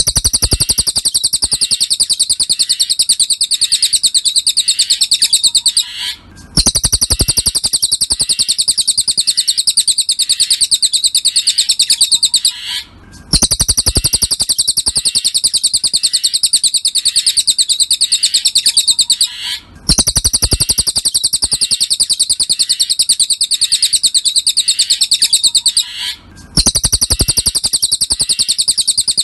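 Cililin bird song: a fast, continuous trill of high repeated chirps in bouts of about six seconds, each broken by a brief pause.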